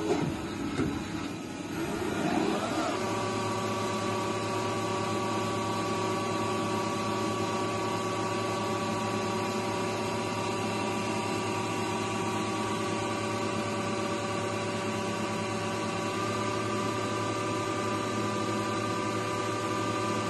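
The spindle drive of a Gildemeister NEF 600 CNC lathe changes speed in the first few seconds, its pitch dipping and then rising. After that it runs at a steady speed with an even, multi-toned whine.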